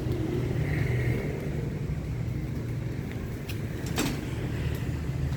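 Car engine idling steadily, with a single sharp click about four seconds in.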